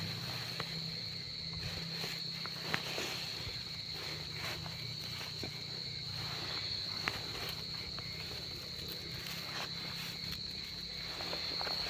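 Cricket singing from the grass: a steady, unbroken high trill. A low hum sits underneath, and a few sharp clicks come at scattered moments.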